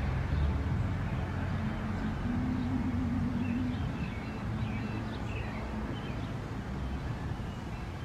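Steady low background rumble with a brief hum a couple of seconds in, and faint, short bird chirps scattered through the middle.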